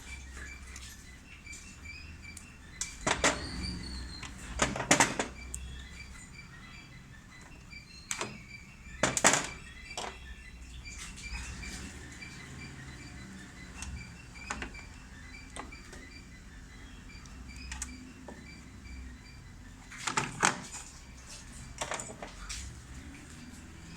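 Hand work on a semi-automatic washing machine while a new timer is fitted: scattered clicks and knocks of parts and tools being handled, the loudest about 3, 5, 9 and 20 seconds in. A low hum and a faint rapid ticking run underneath.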